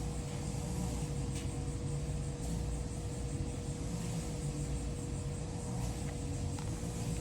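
Steady low motor drone with a constant hum.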